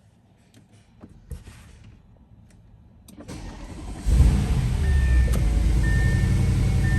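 2013 Audi S7's twin-turbo 4.0 V8 cold-started: a few clicks, a brief crank, then the engine catches about four seconds in with a loud flare and settles into a steady fast idle. A high chime beeps on and off after the start.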